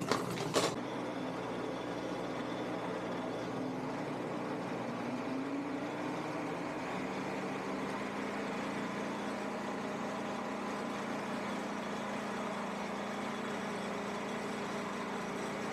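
Shopsmith multipurpose woodworking machine running steadily, its motor driving the spindle that turns a Forstner bit for boring into a maple block. A few sharp knocks come right at the start, and a faint hum wavers before settling into a steady tone.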